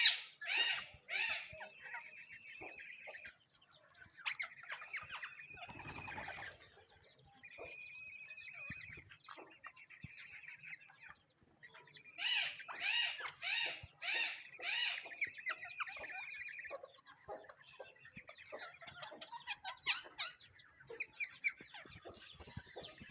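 Ring-necked parakeet calling: a run of loud, sharp, evenly spaced screeches at the start and another about halfway through, with softer chirps and chattering between. A brief rustling noise comes about six seconds in.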